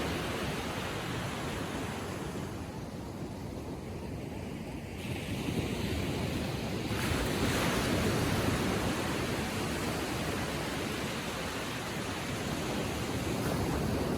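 Small ocean waves lapping on the shore: a continuous wash of surf that eases off a few seconds in, then swells again as a wave breaks and rushes up about seven seconds in.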